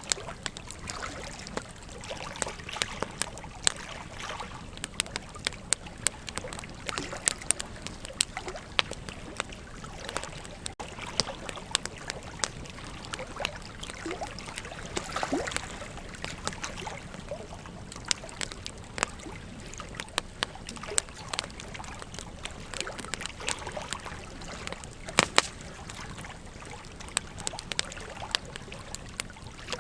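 Wood campfire crackling, with frequent sharp, irregular pops and snaps, one of the loudest about 25 seconds in, over a steady rush of flowing river water.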